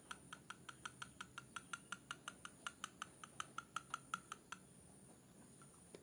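A faint, rapid run of sharp, evenly spaced clicking chirps, about six a second, stopping a little over four seconds in. A steady high chirring of crickets goes on underneath.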